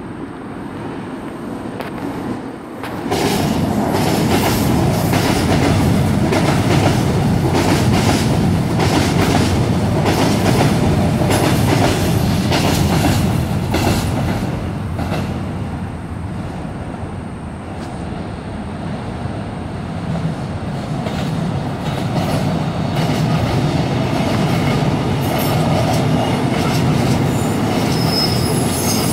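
Seoul Subway Line 7 electric train crossing the steel rail bridge. From about three seconds in it runs loud, its wheels clattering over the rail joints, and a high wheel squeal rises near the end as it passes close by.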